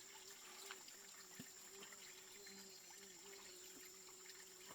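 Near silence: faint background with a low, steady, slightly wavering hum and a couple of soft ticks.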